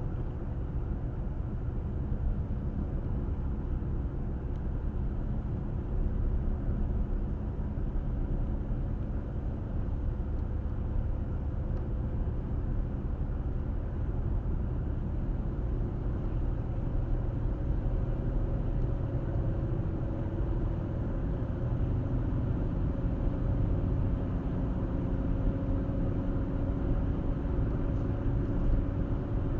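Car driving on the road: a steady low rumble of tyre and engine noise. A faint hum rises slightly in pitch through the second half.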